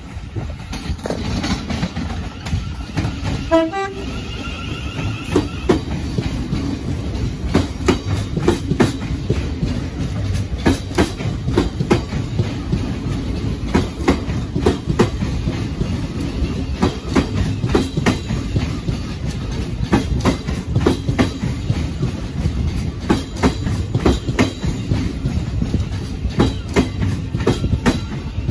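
Electric multiple-unit passenger train running slowly over points into the platform, its wheels knocking over rail joints and crossings in a steady stream of clicks over a low rumble. There is a brief horn toot about four seconds in.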